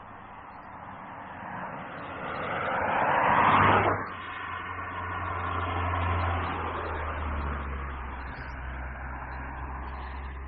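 Mazda 2 driving on the road: tyre and engine noise swells to a peak about four seconds in and cuts off abruptly. A steady low engine hum follows as the car drives on.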